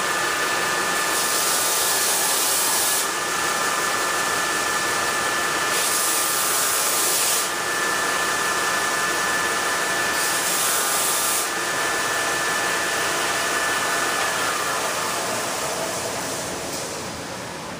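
Small electric power tool running steadily with a whine, sanding inside a composite RC jet fuselage. Three stretches of harsher, hissier grinding come as the sanding bit bears on the work. The motor winds down and stops near the end.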